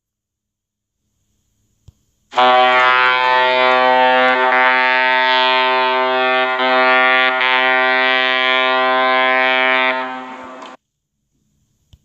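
A loud, steady, horn-like tone with many overtones, held at one pitch. It starts about two seconds in, lasts about eight seconds, then fades a little and cuts off.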